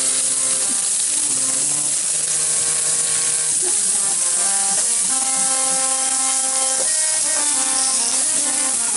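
Okra and green chillies frying in oil in a covered pan, a steady sizzling hiss. Background music of held notes, changing pitch every second or so, plays over it.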